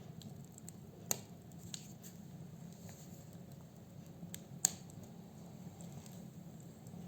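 Wood fire burning in a fireplace, with a low steady rush of flame and sharp crackles and pops from the firewood, two louder snaps about a second in and near the middle.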